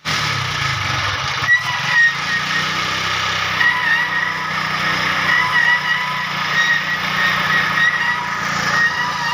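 Honda CD70 motorcycle running while its drum brake shoes squeal, a high, wavering squeal that keeps coming and going over the low engine note, with a couple of knocks about one and a half to two seconds in. This is the brake shoe noise the bike has come in with.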